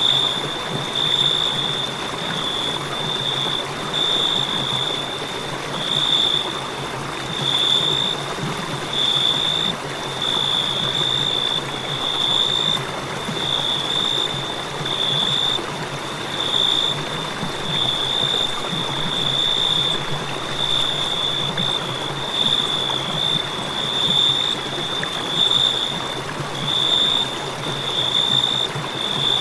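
Cricket chirping: a continuous high trill that swells about every second and a half, over a steady background hiss.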